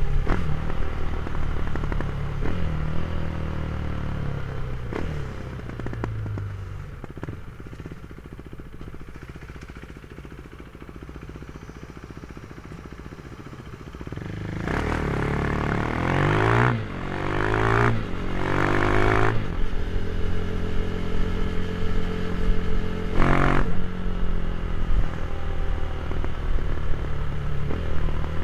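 Motorcycle engine through a GPR aftermarket exhaust: it winds down and runs quieter for several seconds, then accelerates hard about halfway through, rising in pitch twice with a brief break between for a gear change, and then runs steadily at speed.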